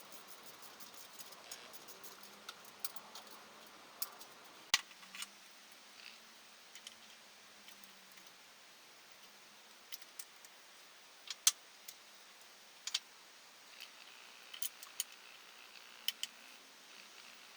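Irregular sharp metallic clinks and ticks of hand tools and metal engine parts being handled, with the loudest clinks about five and eleven seconds in.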